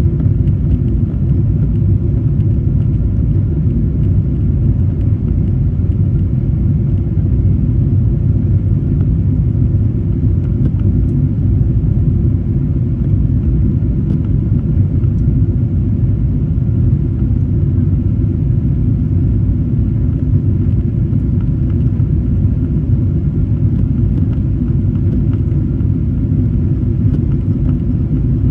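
Jet airliner engines and airflow heard as a steady, loud, deep rumble, with faint steady whining tones above it.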